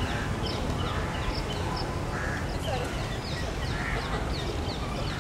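Birds calling: short high chirps repeating every half second or so, with a few lower calls, over a steady low rumble.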